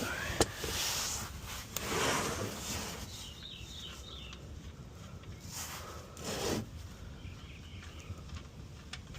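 Hands and parts being handled during an oil change: rubbing and scraping in two stretches, about a second in and again past five seconds, with a few sharp clicks between.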